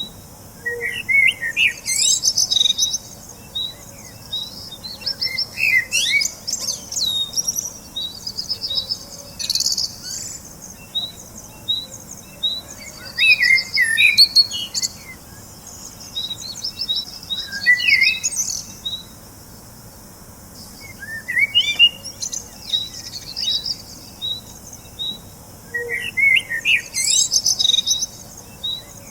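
Small birds chirping and twittering: quick runs of short high notes and trills, several calls overlapping, coming in bursts every few seconds.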